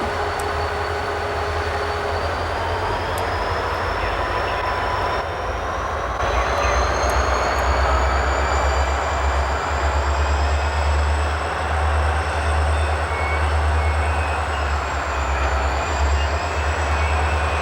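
Train running past: a steady heavy rumble of locomotive and rolling cars, with thin high whining tones that slowly rise in pitch. It grows louder about six seconds in.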